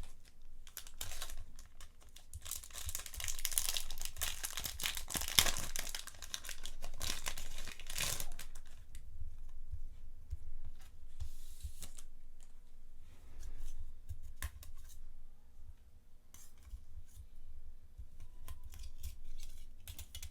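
Packaging being torn and crinkled open by hand, dense for the first several seconds. After that come sparser rustles and light handling clicks.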